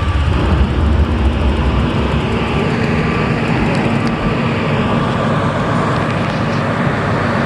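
Wind rushing and buffeting over the microphone while riding a bicycle, strongest as a low rumble in the first two seconds, with a steady vehicle hum underneath from about half a second in.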